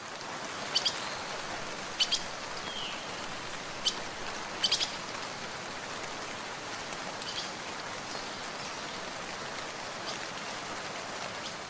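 Steady rain-like hiss with a few short, high bird chirps about one, two, four and five seconds in.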